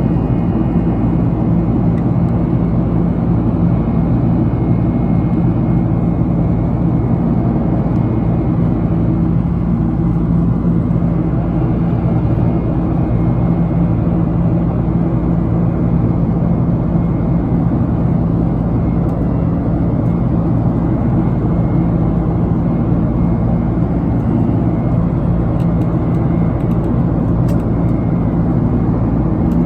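Steady drone of a JAL jet airliner heard inside the passenger cabin in flight: engine and airflow noise with a low hum, unchanging throughout.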